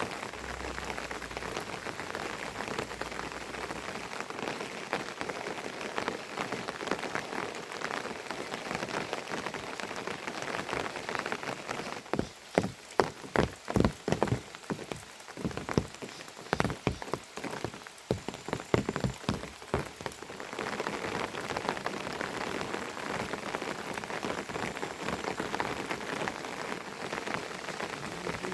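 Steady rain falling, with a stretch in the middle of loud, irregular sharp taps like heavy drops striking a hard surface.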